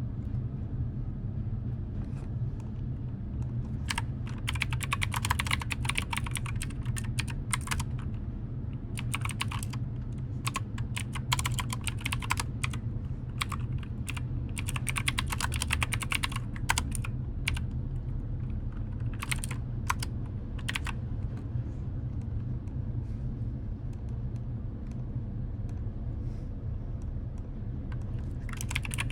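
Typing on a computer keyboard, in runs of quick key clicks separated by pauses, with a longer lull after the middle. A steady low hum sits underneath.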